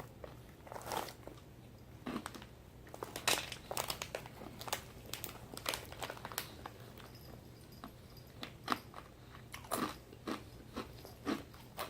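A person chewing crunchy fried corn kernels (Boy Bawang Cornick), with many sharp, irregular crunches as the kernels break.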